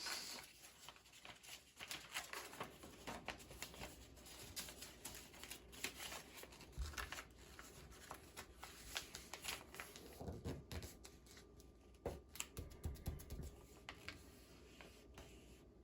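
A sheet of paper being folded and creased by hand for a paper airplane: faint, irregular rustles and crinkles as the folds are pressed flat, with a few soft bumps on the table.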